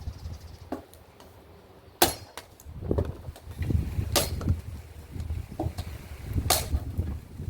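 Firewood being chopped: three hard, sharp strikes about two seconds apart, with smaller knocks around them.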